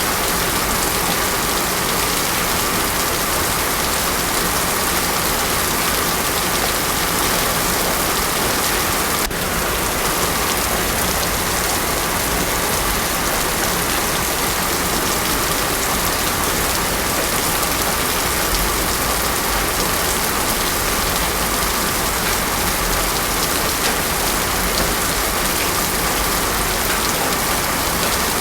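Heavy rain falling steadily on a paved road, a dense, even hiss.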